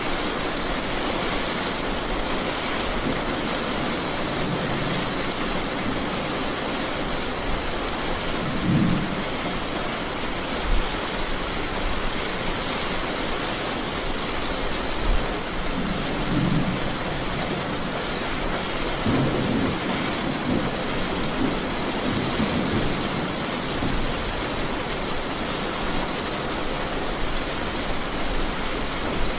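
Steady heavy rain with rolls of thunder rumbling underneath, strongest about a third of the way in and again around two thirds through.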